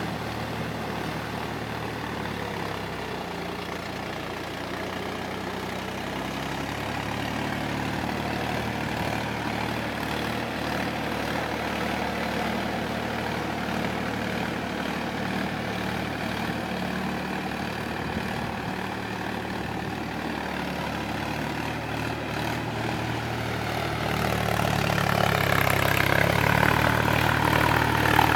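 Tractor engine running steadily with a low hum, growing louder over the last few seconds.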